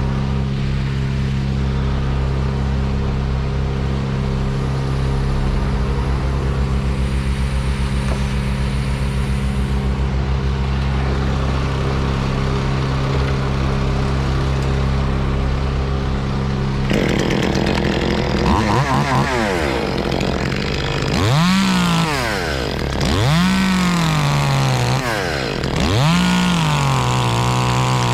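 An engine runs steadily at idle; about two-thirds of the way through a chainsaw joins in and is revved up and back down about four times.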